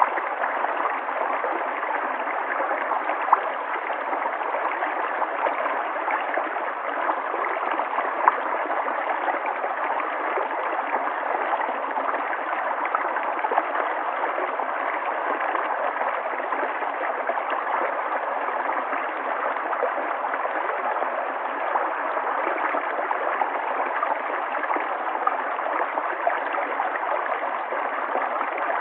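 River water flowing and gurgling steadily, an even rushing with small splashes here and there.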